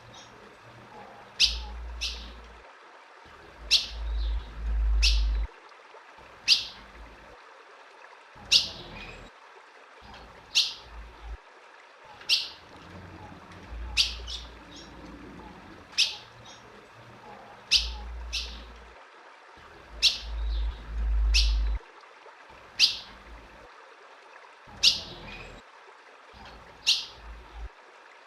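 Female ultramarine grosbeak (azulão) giving sharp chip calls, each a quick downward sweep, about one every two seconds and sometimes in quick pairs. A low rumble comes and goes beneath.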